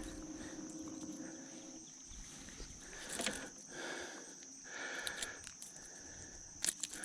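A steady high-pitched insect drone from the riverbank, with a faint low hum that stops about two seconds in. A few light clicks and knocks sound over it, twice a little louder.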